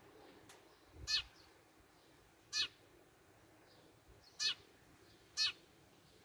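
Small songbird calling: four short, sharp calls, each dropping steeply in pitch, spaced about one to two seconds apart.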